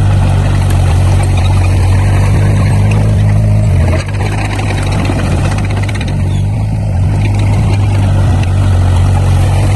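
Heavy construction machine's diesel engine running steadily and close, its note changing briefly about four seconds in.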